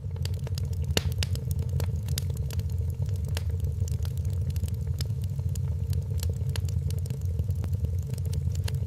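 Wood fire in a fireplace crackling and popping with frequent irregular sharp snaps over a steady low rumble of the burning fire.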